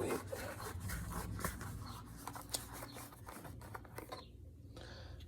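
Plastic motor oil bottle being opened by hand: a run of short scratchy rustles and clicks as the cap is worked off.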